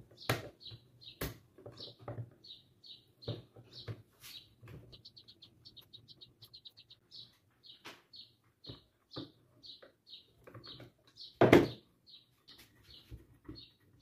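A small bird chirping over and over, about two or three short chirps a second, with a quick rapid trill near the middle. Under it come scattered clicks and knocks of tools and metal parts being handled at a fan motor, with one louder knock near the end.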